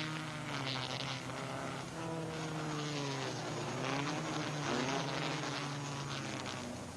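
Small sports-car racing engines running hard, a buzzing drone whose pitch falls and rises again several times as the cars come by.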